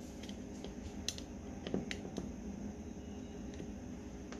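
A few faint, short clicks and light taps of small carburetor parts and tools being handled during disassembly, over a low steady hum.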